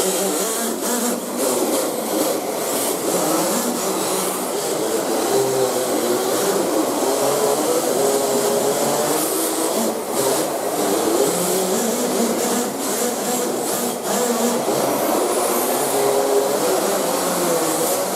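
Cox Tee Dee .051 miniature two-stroke glow engine running at high revs on an RC drift car, fitted as a simulated engine sound; its pitch wavers up and down continually as the throttle is worked.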